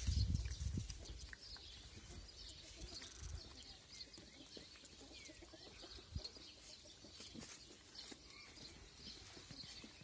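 Small birds chirping faintly and often. A low rumble of wind or handling noise on the microphone fills roughly the first second.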